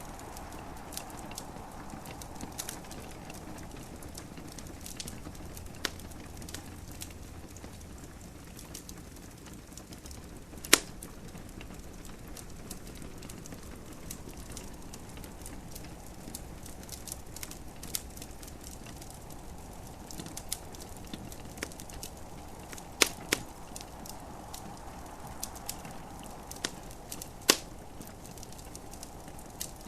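Wood fire crackling in a fireplace: irregular small snaps and a few sharp louder pops, the loudest about eleven seconds in, over a steady soft hiss.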